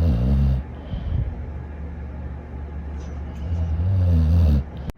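Dog snoring: a deep snore right at the start and a longer one about three and a half seconds in, with quieter low breathing between them.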